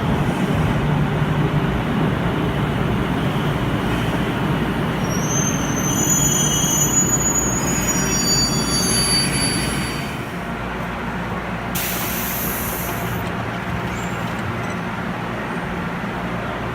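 Echizen Railway MC7000 electric railcar running, heard inside the car: a steady rumble of wheels on rail, with thin high wheel squeals about five to nine seconds in. A short burst of hiss comes about twelve seconds in.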